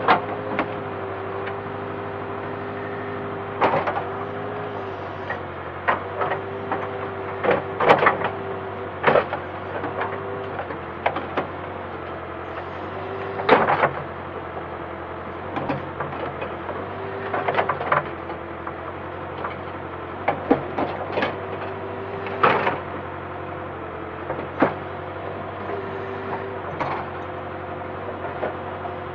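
Backhoe at work: its engine runs at a steady drone with a tone that shifts in pitch now and then, broken by irregular clanks and knocks from the bucket and arm every second or two.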